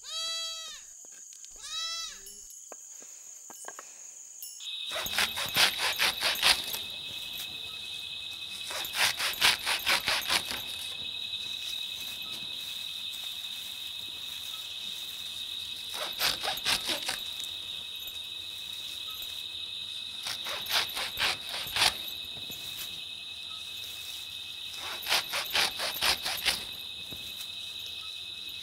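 Night insects: crickets trilling steadily, with louder trains of rapid chirping pulses every four or five seconds. Before this, in the first seconds, a thinner, higher trill is heard, along with two short pulsed calls from another animal; the sound changes about five seconds in.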